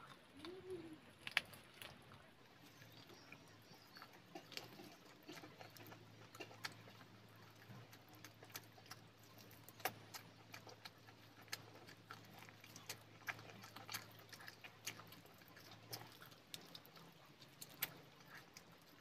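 Faint close-up eating sounds: chewing and mouth clicks as chicken meat is bitten and pulled from the bone by hand, with scattered sharp clicks throughout over a low steady hum.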